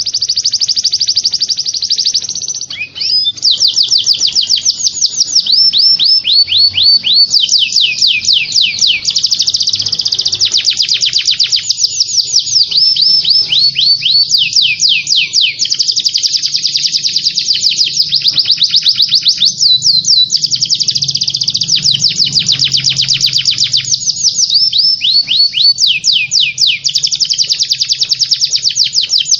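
Songbird song: rapid high-pitched trills of quick down-slurred notes, several a second, strung into phrases a few seconds long with brief breaks between them, as used for masteran training recordings.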